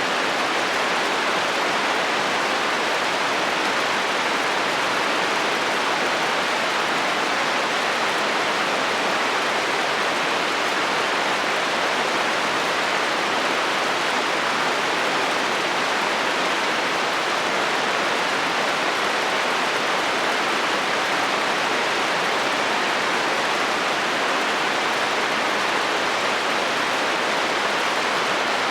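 Heavy rain falling steadily on a metal roof, an even hiss with no thunder.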